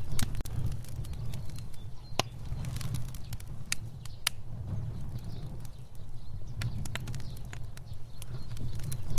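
Fire burning with a steady low rumble of flames and irregular sharp crackles and pops, the loudest pops about two seconds in and around four seconds in.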